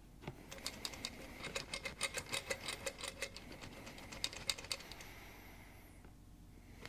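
Rapid run of small metallic clicks and rattles as a Lucas CAV DPA diesel injection pump part is shaken and knocked over a catch tray to empty it, stopping about five seconds in.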